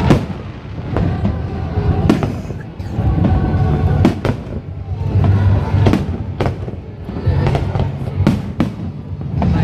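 Aerial fireworks shells bursting in a rapid series, a sharp bang every second or so, with music playing underneath.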